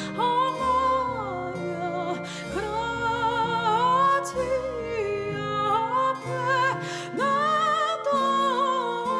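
A solo voice singing a slow, tender melody in long held notes with a wide vibrato, over soft instrumental accompaniment with sustained low notes.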